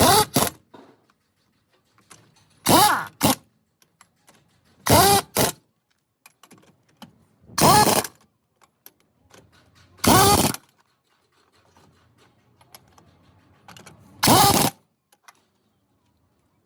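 Pneumatic impact wrench on truck wheel nuts, run in six short bursts every two to three seconds. Each burst is a rising whine over a rattle, sometimes followed by a quick second blip of the trigger.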